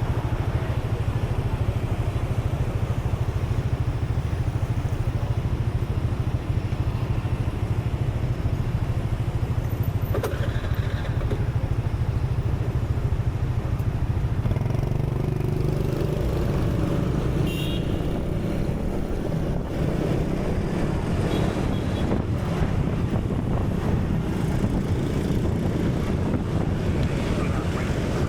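Steady low rumbling noise with no speech, growing a little fuller about halfway through.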